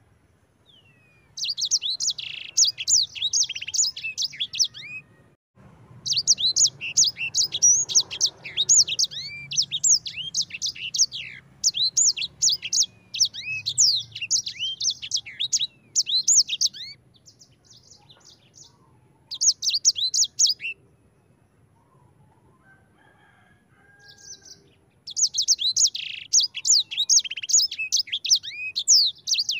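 Sanger songbird singing in long bouts of rapid, high twittering trills, broken by a few short pauses.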